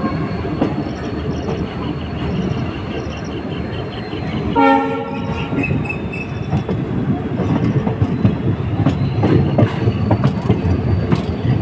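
Diesel passenger train running, with a steady rumble and wheel rattle on the rails. Its horn sounds once, briefly, about four and a half seconds in.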